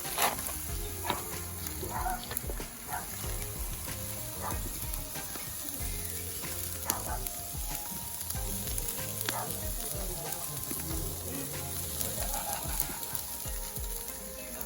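Marinated lamb leg sizzling on a hot charcoal barbecue grill, a steady hiss with scattered sharp crackles and pops.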